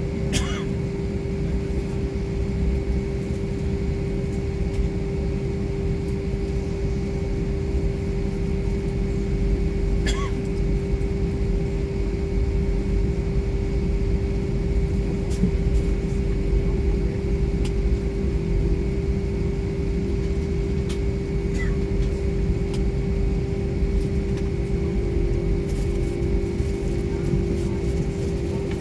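Airliner cabin noise: a steady low rumble of engines and airflow with a constant hum, and a couple of faint clicks.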